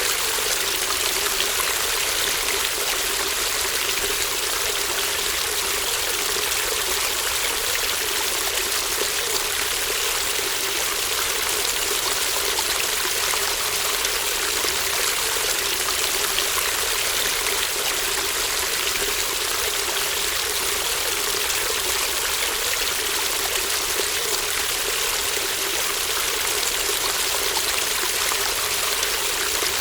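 Babbling brook: shallow stream water murmuring and flowing steadily, an even, unbroken rush of water.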